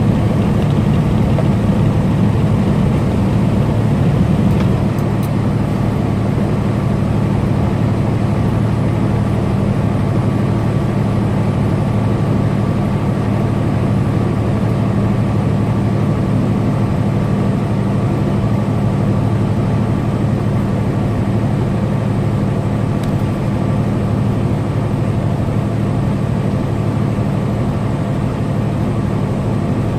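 Semi truck's diesel engine running steadily at highway speed with road noise, a low drone that eases a little about four and a half seconds in.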